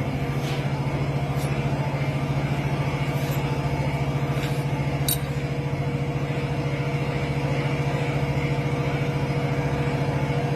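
Machine-shop motor running steadily with a fast, even pulsing hum and a thin steady whine over it, with a few faint ticks.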